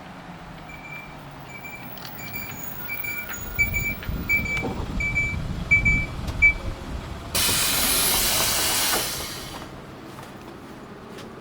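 Inside an Isuzu Erga Mio bus: an electronic beep repeats about twice a second while the bus rumbles and knocks over the road. It is followed by a loud hiss of compressed air from the bus's air system, lasting about two seconds.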